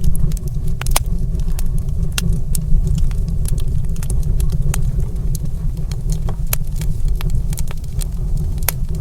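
Wood fire crackling in a stone fireplace: irregular sharp pops and crackles, several a second, over a steady low rumble.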